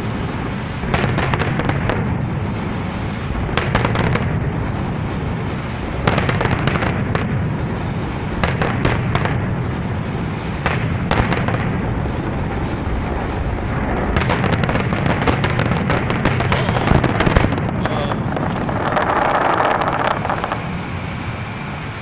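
Fireworks going off in repeated volleys of sharp cracks and bangs, densest about two-thirds of the way through, over a continuous low rumble.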